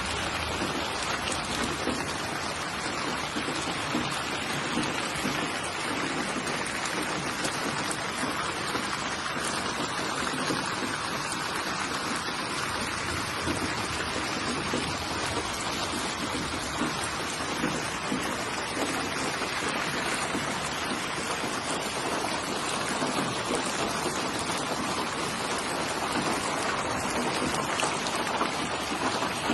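Steady rainfall, a continuous even patter of raindrops on a surface with no break.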